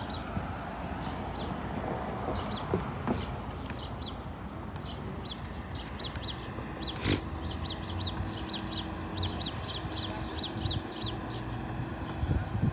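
A bird chirping over and over in short, high notes, a few a second, coming faster in the second half, over a steady low hum of street noise. One sharp click about seven seconds in.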